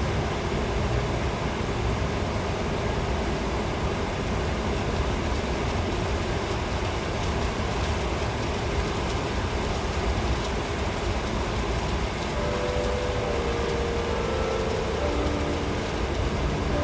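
Steady rain with wind rumbling on the phone's microphone, an even noise heaviest in the lows. About twelve seconds in, a faint steady humming tone joins it.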